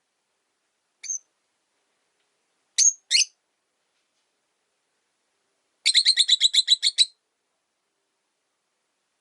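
Rosy-faced lovebirds chirping: one short high chirp, two sharp chirps close together about two seconds later, then a rapid run of about ten chirps lasting a little over a second.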